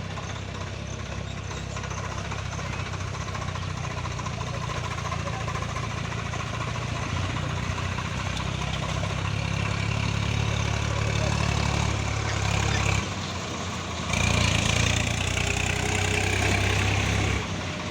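Heavy diesel engine running, its note growing slowly louder, dipping briefly about thirteen seconds in, then running louder again before easing off near the end.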